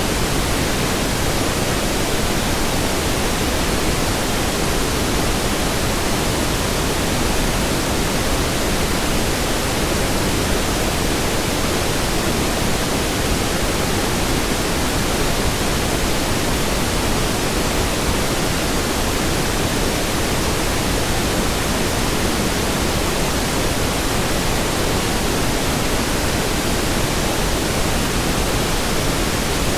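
Steady pink noise: an even hiss spread across all pitches, constant in level.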